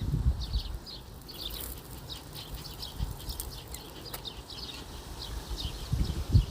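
Birds chirping: many short high calls, a few a second, over a steady low rumble.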